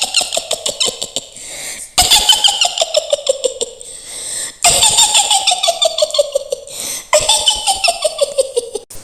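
Mak Lampir's shrill witch's cackle: a woman's high, rapid "hihihi" laugh in four rounds, each sliding down in pitch.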